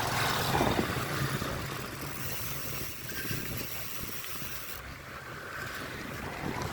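Vehicle and road noise with a low hum, which thins out after about three seconds.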